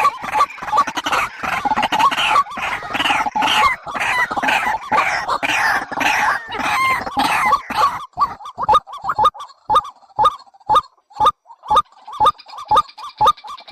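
Bird calls repeated in quick succession: a dense, overlapping chorus of short calls, thinning about eight seconds in to sharp single calls at about two or three a second.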